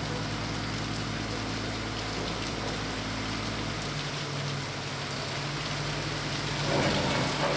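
Heavy rain falling steadily, an even hiss of a downpour with a faint low hum underneath. It grows a little louder near the end.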